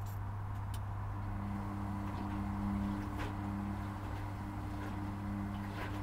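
Indesit washing machine running its wool-programme pre-rinse: a steady low hum, joined about a second and a half in by a motor whine that comes and goes as the drum turns, with faint swishes and clicks.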